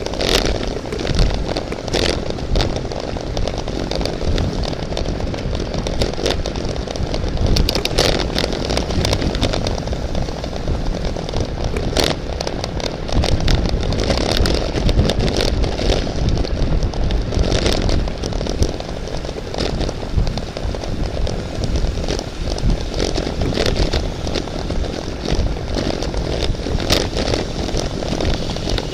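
Wind buffeting the microphone and road noise of a racing bicycle at speed, a steady rush with many scattered sharp clicks and knocks.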